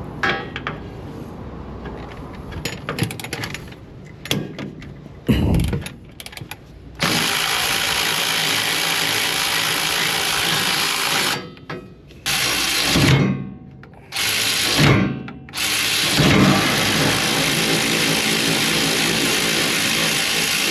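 A power tool running in four long bursts with short breaks between them, after several seconds of clicks and knocks from handling tools and parts.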